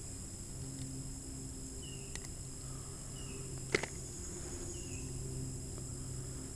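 Steady high-pitched drone of insects, crickets or cicadas, with a short high chirp repeating about every second and a half and two sharp clicks, one about two seconds in and a louder one a little before four seconds.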